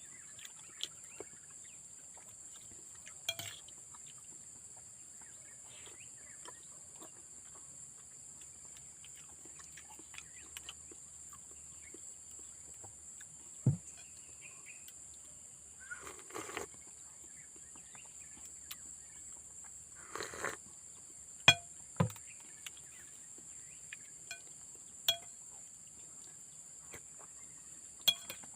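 Steady high-pitched drone of insects in a rural garden. Over it come several sharp clinks, like cutlery on a plate during eating, and a couple of brief rustles.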